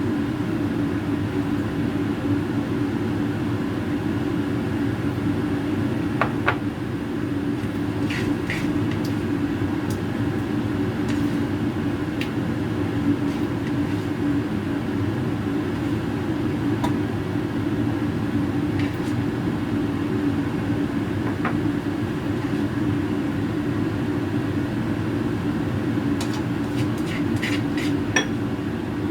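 A steady mechanical hum, like a fan or motor running, with a few light clicks and clinks now and then.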